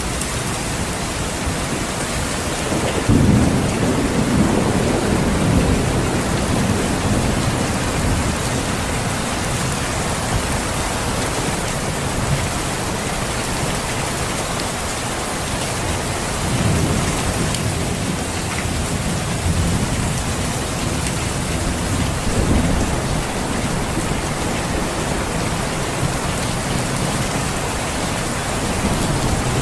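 Steady rain with low rumbles of thunder: a strong one about three seconds in and several more later on.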